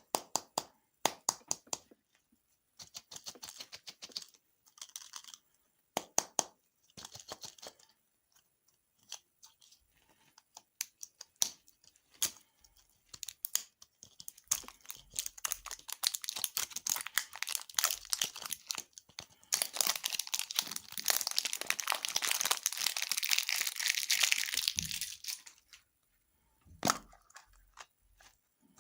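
Close-miked crunching and crinkling of candy and dessert being bitten, chewed and handled in its packaging. Sharp separate clicks and short crackles come first, then a long, dense stretch of crackling in the second half.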